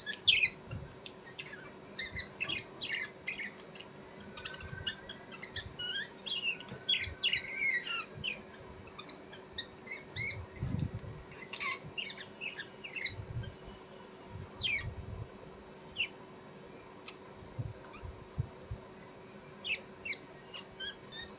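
Small birds chirping and squawking in clusters of short, high calls, many of them quick downward sweeps. There are brief gaps between calls and a few low thumps about halfway through.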